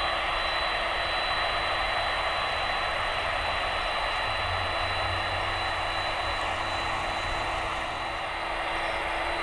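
Jet aircraft engines running steadily at idle: an even rushing noise with a high whine and a low hum, and a second whine that rises slightly near the end.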